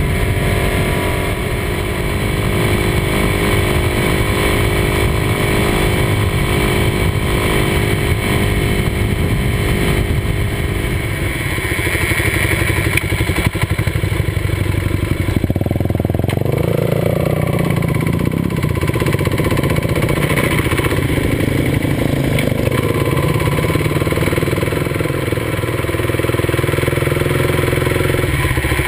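Kawasaki D-Tracker 250's single-cylinder four-stroke engine running under way, heard close from the handlebars with rushing air over it. The engine note changes about halfway through as the revs shift.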